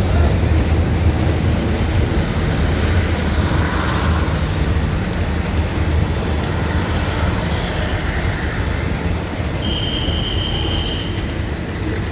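Train running on the rails with a steady low rumble. About ten seconds in, a brief high steady whine sounds for a second or so.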